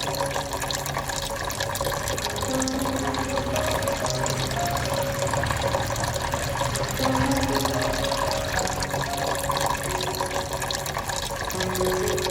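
Water falling and splashing steadily in a homemade tabletop rain fountain.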